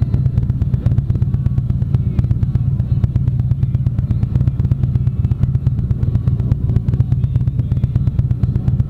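Harley-Davidson V-twin engine running steadily at a constant pace while riding, with a dense, rapid pulsing and no revving.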